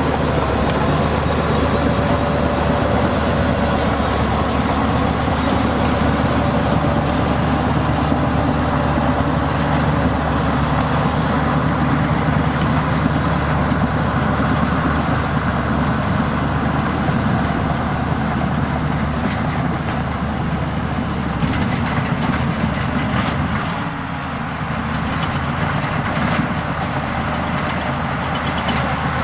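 Diesel engine of heavy earthmoving machinery running steadily, with a deep, even hum. Light clicking comes in during the second half, and the engine eases briefly about 24 seconds in.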